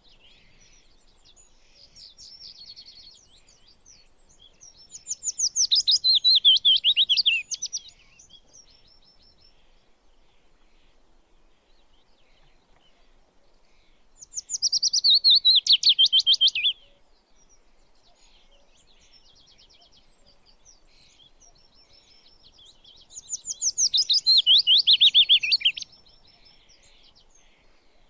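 A songbird singing: three loud bouts of rapid, repeated falling notes, each about two and a half seconds long and roughly nine seconds apart, with fainter twittering phrases in between.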